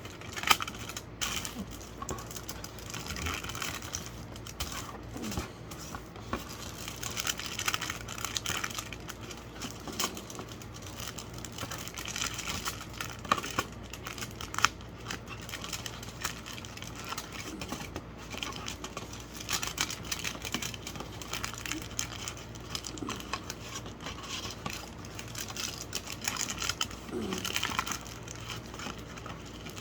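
Aluminium foil crinkling and crackling irregularly as it is folded and pressed by hand into a small boat shape.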